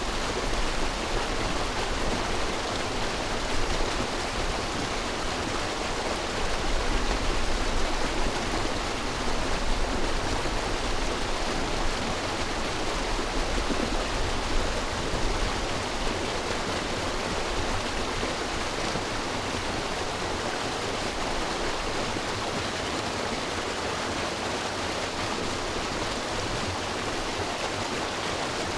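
River water rushing in a steady, even stream, with a few louder swells in the first half.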